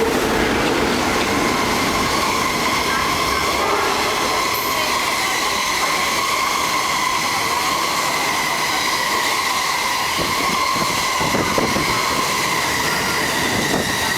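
Through passenger train, a DF11 diesel locomotive hauling 25Z coaches, passing at speed: a steady, loud rolling rumble of wheels on rail with a high ringing tone held over it.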